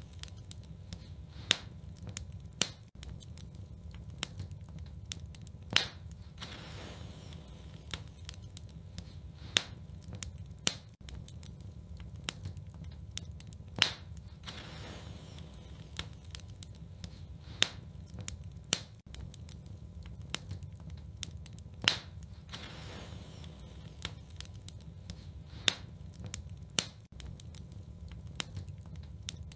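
Wood fire burning in a fireplace, crackling steadily with sharp pops every few seconds over a low rumble.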